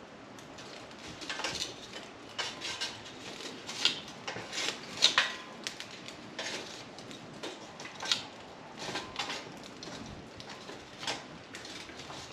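Charcoal briquettes clinking and knocking against a metal chimney starter as they are loaded into it: a dozen or so irregular sharp clinks.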